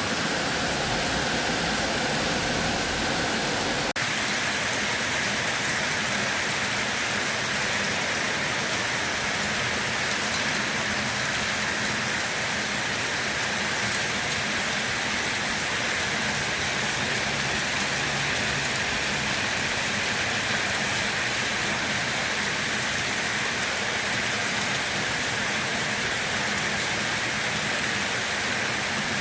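Steady rain falling, an even hiss of many drops, with a momentary dip about four seconds in.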